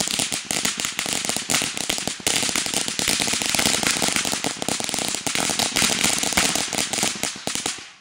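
A long string of firecrackers going off in a dense, rapid, continuous rattle of sharp pops, cutting off suddenly near the end.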